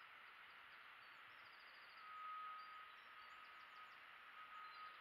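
Near silence: a steady hiss with faint, high bird chirps and trills, and a thin steady tone that comes in about two seconds in.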